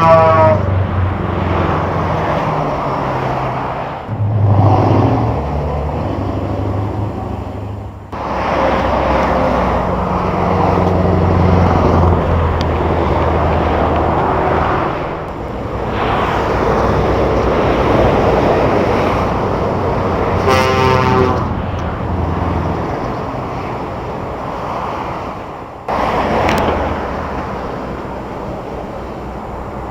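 Heavy trucks' diesel engines running and driving by, cut together from several clips so that the sound changes abruptly a few times. An air horn sounds once, about two-thirds of the way through.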